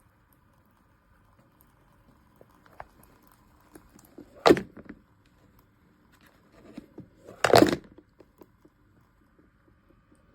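Two short knocks or bumps about three seconds apart, the second slightly longer, with a few small clicks around them, over a faint steady hum.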